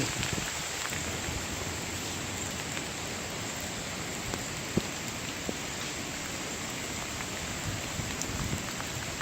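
Steady rain falling from the hurricane, a continuous hiss with scattered drop ticks.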